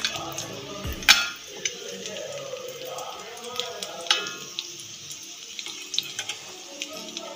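Egg cutlets sizzling in shallow oil in a pan, with a sharp clink of a metal spatula against the pan about a second in and a few lighter clinks later.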